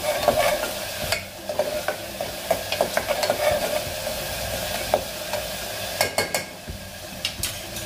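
Steel spoon stirring masala frying in hot oil in an aluminium pressure cooker: steady sizzling, with repeated clicks and scrapes of the spoon against the pot and a quick run of clicks about six seconds in.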